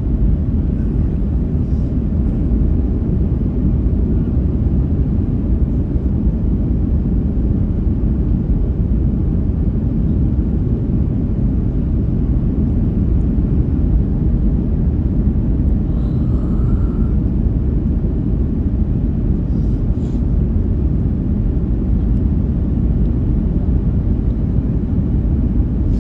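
Steady low rumble of an airliner, engine and airflow noise holding even throughout.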